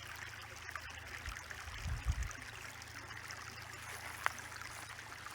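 A small shallow stream trickling and burbling steadily. A low thump comes about two seconds in, and a single sharp click a little past four seconds.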